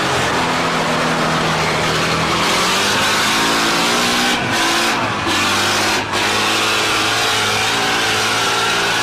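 Off-road trial truck's diesel engine working hard and revving, its pitch rising and falling as it drives. The sound briefly drops three times around the middle.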